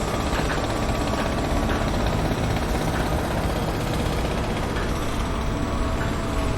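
Construction-site machinery: heavy engines running steadily in a dense low rumble, with a few faint knocks.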